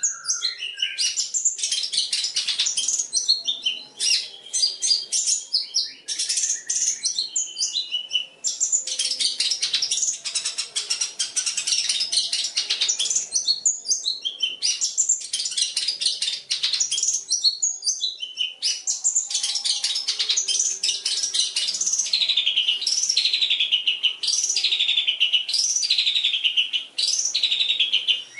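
Long-tailed shrike (cendet) singing a fast, varied song packed with mimicked phrases, with no pauses. In the last few seconds it switches to a run of repeated downward-sweeping notes, about one a second.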